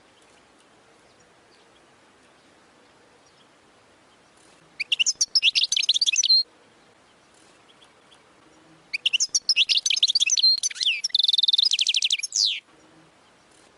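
European goldfinch singing a 'wadani'-style song in two phrases of rapid, high twittering. The first, about five seconds in, lasts under two seconds. The second begins about nine seconds in, lasts nearly four seconds and ends in a fast, even trill.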